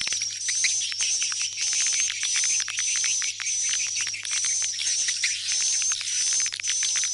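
Recorded swiftlet calls, dense rapid chirping and clicking, with a high steady whistling tone that pulses on and off about twice a second. It is a lure call, played to draw swiftlets back to a swiftlet nest house.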